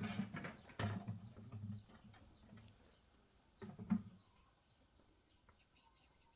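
Birds calling: low cooing or clucking calls in the first two seconds and again about four seconds in, over a thin high chirp repeating about twice a second.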